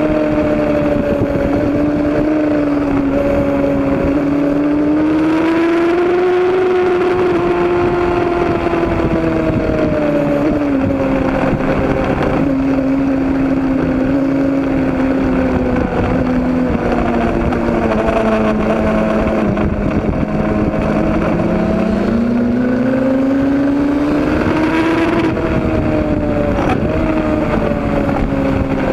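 Motorcycle engine running continuously under steady throttle, one unbroken drone whose pitch slowly rises and falls, swelling twice, about six seconds in and again near the end.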